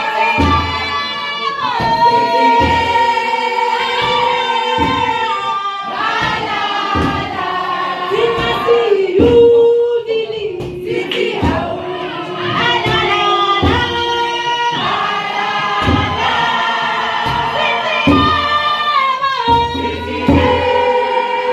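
Choir singing a gospel song in several voices over a steady low beat.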